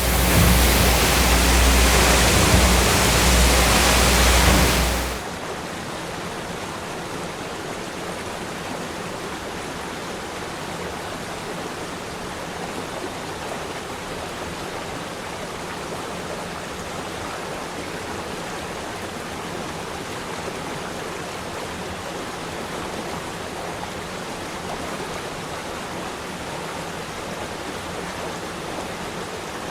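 Waterfall swollen by a day of heavy rain, its water rushing steadily. Loud with a deep rumble for about the first five seconds, then it drops suddenly to a softer, even rush.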